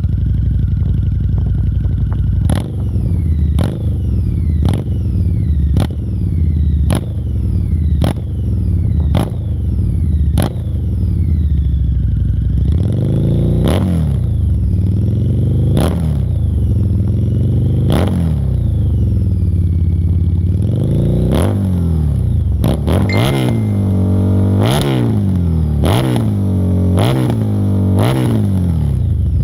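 Harley-Davidson V-Rod Muscle's V-twin engine through Bassani slip-on exhaust mufflers, running with sharp cracks about once a second. From about halfway it is revved up and down in swells every couple of seconds, and the blips come quicker near the end.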